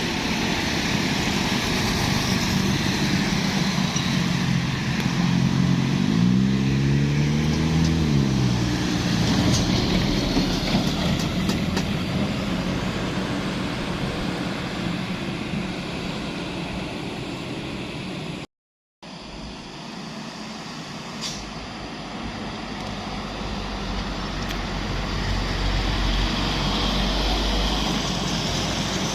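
Road traffic on a steep climb: truck and other vehicle engines passing. One engine note rises and then falls about six to eight seconds in. The sound drops out completely for a moment a little past halfway.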